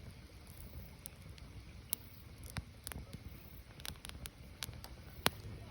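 Firewood burning, with irregular sharp crackles and pops over a low rumble of flame; the loudest pop comes a little after five seconds in.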